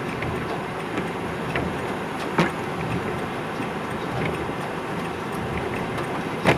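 A car driving, with a steady rush of road noise, and two short knocks: one about two seconds in and a louder one near the end.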